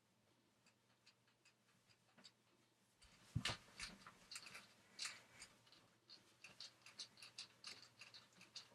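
Near silence: room tone with faint scattered clicks and rustles, and two soft knocks about three and a half and five seconds in.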